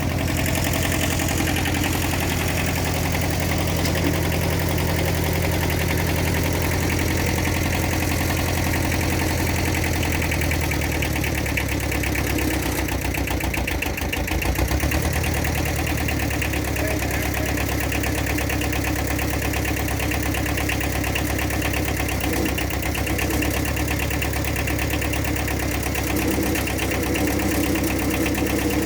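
Engine idling steadily, with a shift in engine speed a little under halfway through before it settles again.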